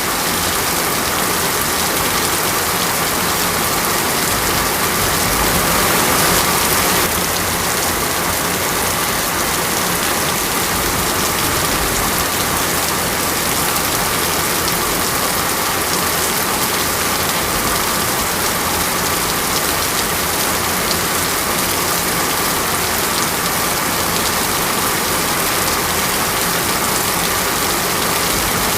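Steady rain falling, a dense, even hiss that swells slightly about six seconds in.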